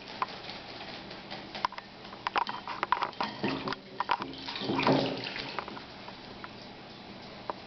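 Pet bird bathing, splashing and fluttering in water in irregular bursts with sharp little clicks, busiest in the middle and calming near the end.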